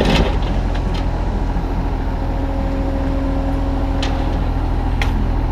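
Kubota U35-3 mini excavator's diesel engine running steadily, with a faint whine through the middle and a few sharp clicks near the end.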